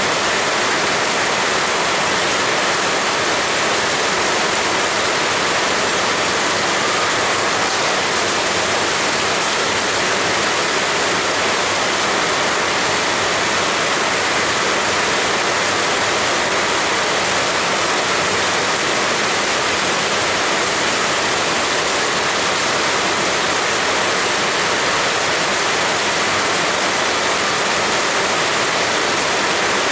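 Heavy rain falling steadily: a loud, even hiss with no change in strength.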